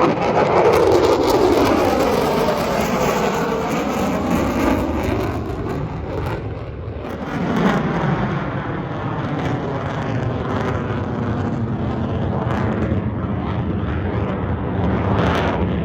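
Airplane engine passing overhead, loud and continuous. Its pitch falls in the first few seconds as it goes by, and a second rise and sweep follows about halfway through.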